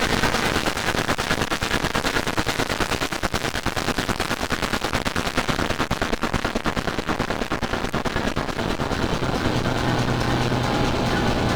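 A mashup of many electronic 'band' music loops played at once: a dense, rapid clatter of beats over a few held tones, with a low steady tone coming in near the end.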